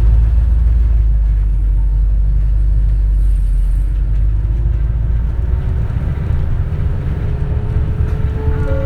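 Cabin running sound of a 2004 CNG (natural-gas) city bus: a heavy low rumble of engine and road, with a faint whine that rises slowly in pitch as the bus gathers speed. Near the end a short electronic chime starts.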